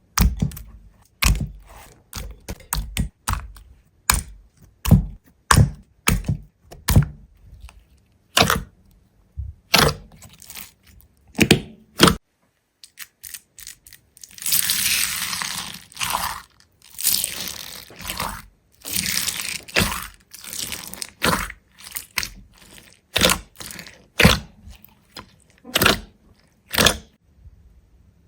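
A run of sharp cracks and knocks, one after another at uneven spacing, with a longer stretch of dense crunching in the middle.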